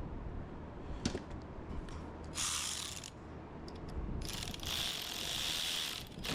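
Ratchet wrench clicking in two runs, a short one and then a longer one of nearly two seconds, with a sharp click about a second in, as fasteners are driven during reassembly of the ignition switch housing.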